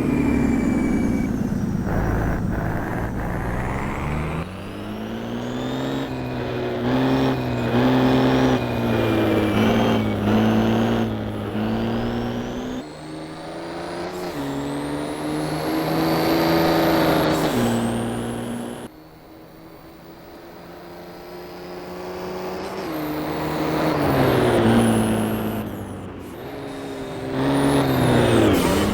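Formula Truck racing trucks' diesel engines accelerating hard and shifting up through the gears, the engine note climbing in steps and then falling away as each truck goes by. The trucks pass several times, with a quieter lull about two-thirds of the way through.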